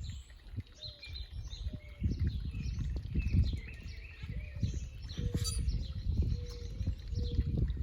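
Many small birds chirping and calling at once, in short, overlapping notes, with a few lower repeated notes among them, over a low rumble that swells and fades.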